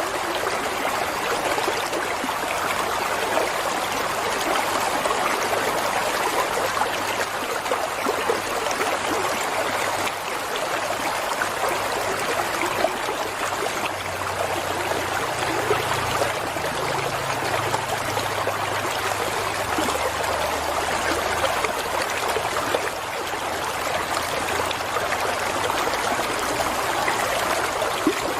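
Running water of a stream or small waterfall: a continuous, even rush and trickle.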